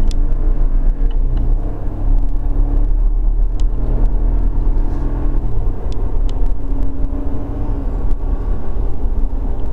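Lifted 2020 Ram pickup on the move: a steady low engine and road rumble whose engine note steps down in pitch twice, about a second and a half in and again about five and a half seconds in.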